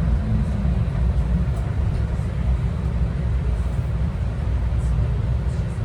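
Steady low rumble inside an airport people-mover train car as it arrives at a station.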